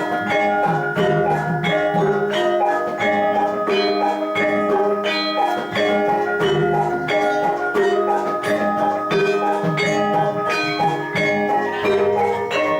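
Javanese gamelan ensemble playing jathilan accompaniment: struck metallophones ringing out pitched notes in a steady, even rhythm, with percussion underneath.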